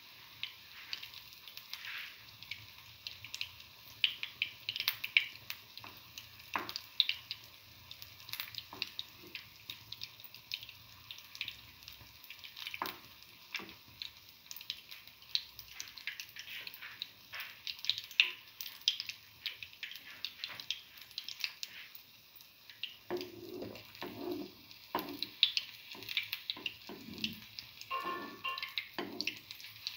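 Chickpea-batter-coated egg fritter shallow-frying in hot oil: irregular crackles and spits. Near the end, a slotted spatula knocks and scrapes in the pan a few times.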